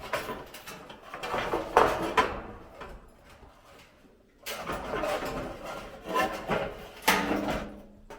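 Handling noises of building materials being moved and set in place: scraping and rubbing, with sharp knocks about two seconds in and again near the end.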